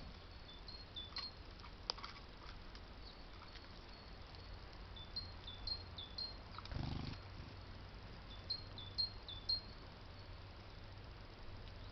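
A small songbird singing a repeated high two-note phrase in short runs, with a few clicks and a brief low rumble about seven seconds in, over steady low background noise.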